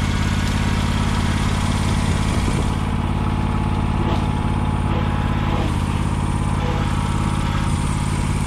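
Lawn tractor's small engine running at a steady speed.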